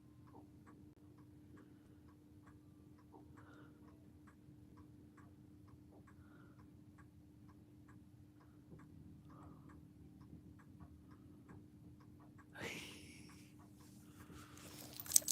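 Clock ticking steadily, about twice a second, over a faint steady hum. About twelve and a half seconds in, a short rustling noise rises above the ticking.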